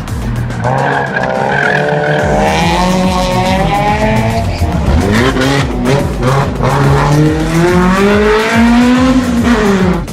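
Racing car engine revving hard as it accelerates, the pitch climbing, dropping sharply about halfway through, then climbing again, with a brief tyre squeal near the start.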